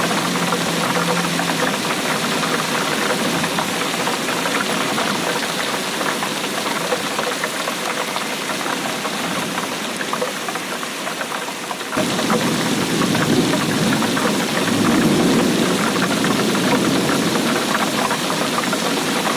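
Steady heavy rainfall, a dense patter of drops. About twelve seconds in, the sound changes abruptly and a low rumble joins it.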